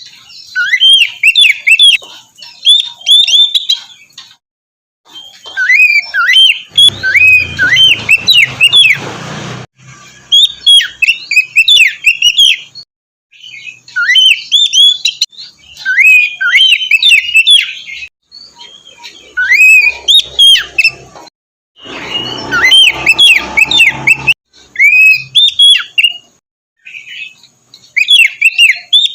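Oriental magpie-robin (kacer) singing loudly: rapid runs of varied whistled notes sliding up and down, in bursts of a few seconds with short breaks between them. Twice a stretch of hiss and low hum sits under the song.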